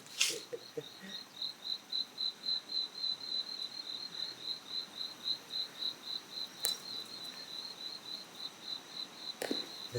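A cricket-like insect chirping steadily, about three to four high chirps a second. A few brief sharp clicks sound over it, near the start, about two thirds of the way in and near the end.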